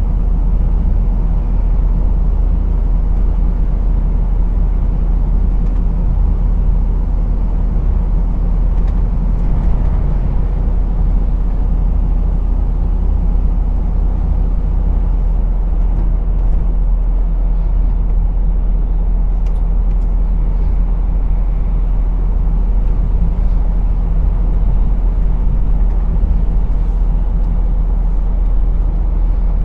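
Lorry's diesel engine and road noise, a steady low drone heard from the driver's seat while driving.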